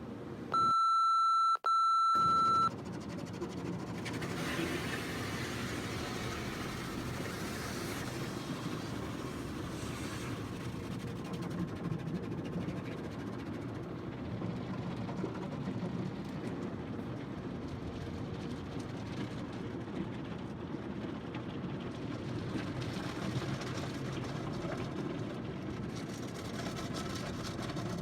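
Tunnel car wash machinery heard from inside the car's cabin: a steady rumble of the conveyor and brushes with the hiss of water spray, brighter for a few seconds after the start and again near the end. About a second in, two loud high-pitched beeps sound back to back.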